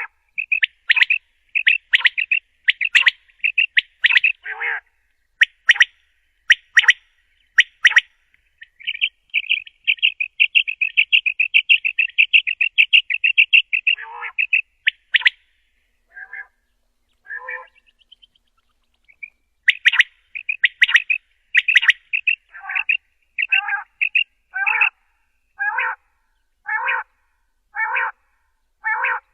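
Quail calling: clusters of sharp chirping notes, then a rapid trill of notes about halfway through. After a short lull, evenly spaced call notes follow about once a second.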